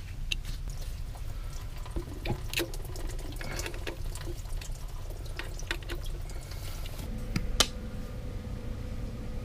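Scattered light metallic clicks and taps of a screwdriver working the stainless screws out of a raw water pump's cover plate, over a steady low hum.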